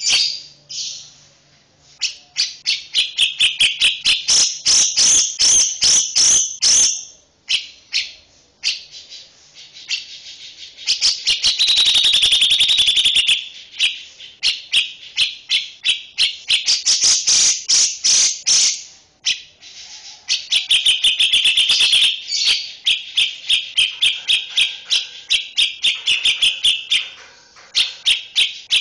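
Songbird calls: rapid runs of sharp clicking notes and high, harsh chattering trills, broken by a few short pauses.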